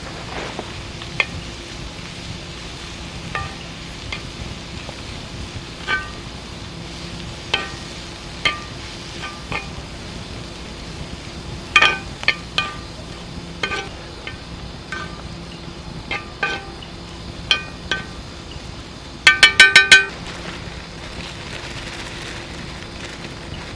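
Metal utensil clinking against a metal cooking pot: scattered single ringing taps, then a quick run of about six sharp taps near the end, over a steady hiss.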